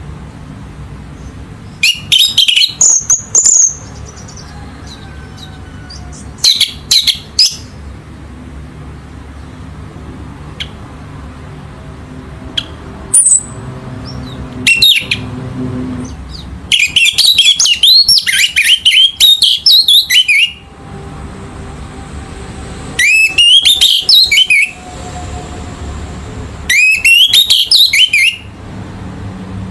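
Orange-headed thrush singing: about seven bursts of rapid, varied whistled phrases, each lasting one to three seconds with pauses between, over a steady low hum.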